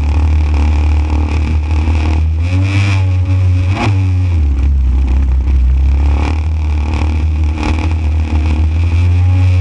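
Motorised JetSurf board's small two-stroke engine running under load, its pitch rising and falling as the throttle changes, over a steady low rumble.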